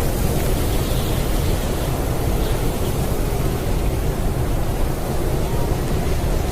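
Blizzard wind blowing, a steady low rushing noise that stays even throughout.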